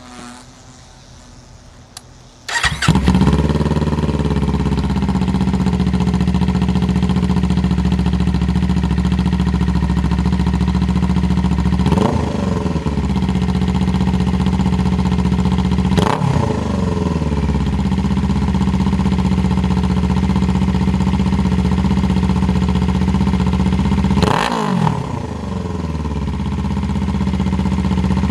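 A Kawasaki Ninja 500's parallel-twin engine starts about two and a half seconds in and settles into a steady idle. It is blipped three times, each rev rising and falling quickly, spread through the idle.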